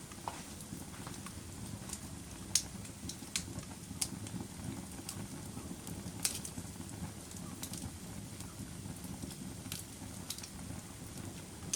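Campfire wood burning: a steady low rush of flames with irregular sharp crackles and pops, the loudest about 2.5 s and 6 s in.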